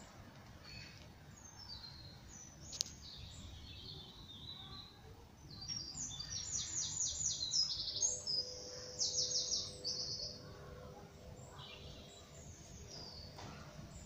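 A songbird singing: scattered high chirps that build into loud, fast trills in the middle, over a low outdoor background rumble.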